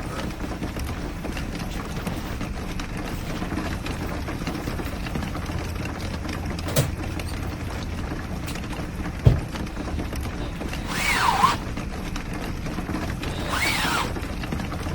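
Steady rain on a small camper, with a couple of sharp knocks and two short squeaks that rise and fall near the end, like creaking fittings or a hinge being worked.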